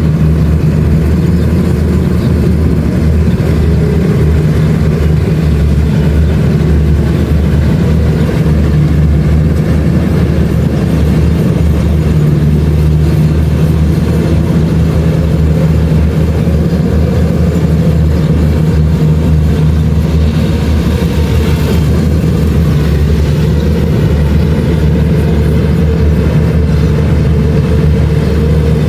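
Kubota DC-70 Plus combine harvester's diesel engine running steadily while harvesting rice, a loud, even drone with no change in pace.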